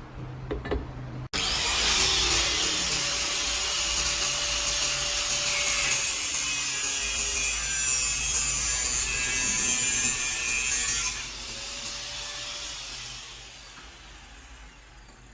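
Steady harsh abrasive scraping of metal being worked, starting abruptly about a second in and dropping to a quieter, fading scrape after about ten seconds.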